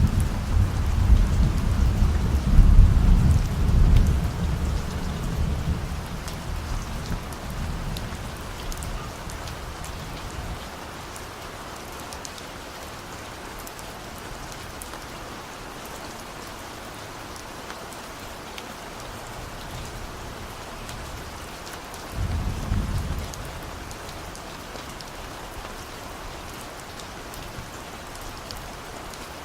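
Steady rain falling, with distant thunder: a long low rumble that dies away over the first ten seconds, and a second short rumble a little past twenty seconds in.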